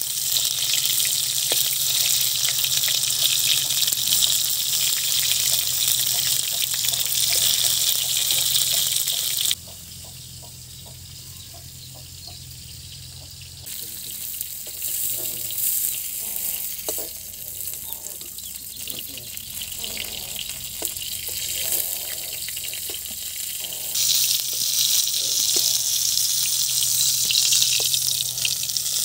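Pointed gourds frying in hot oil in a metal wok: a loud, steady sizzle. About a third of the way in it drops away abruptly to a quieter stretch of scattered clicks and taps, and the loud sizzle returns near the end.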